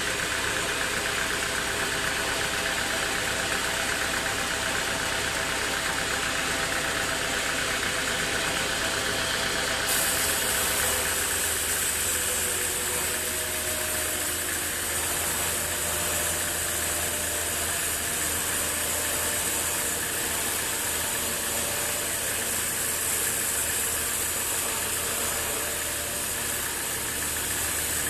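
Band sawmill machinery running with a steady engine-like hum. About ten seconds in, a strong high-pitched hiss joins it with a deeper hum underneath, and it lasts almost to the end.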